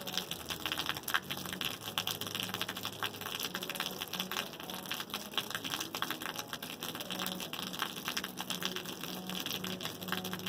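Rain falling, with many separate drop impacts ticking irregularly over a steady hiss.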